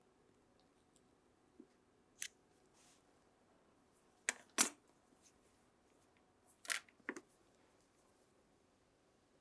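A handful of short, sharp clicks from small tools and parts being handled on a workbench: one about two seconds in, then two close pairs about halfway and near three-quarters through.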